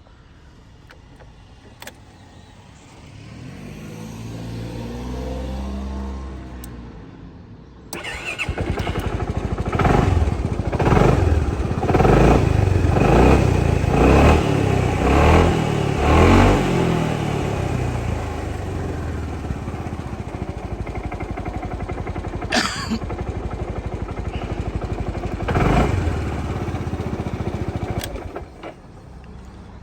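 Suzuki Skywave 400 scooter's single-cylinder engine starting about eight seconds in, after a rising and falling hum. It is blipped about half a dozen times, settles into a steady idle, and cuts off near the end.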